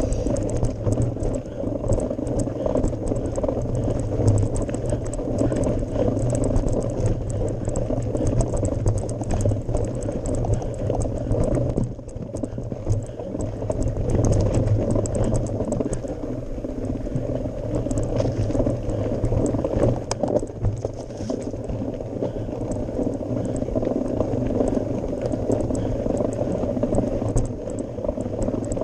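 Mountain bike ridden up a gravel forest-road climb: a steady low rumble of tyres on gravel under a constant fine rattle from the bike, easing briefly about twelve seconds in.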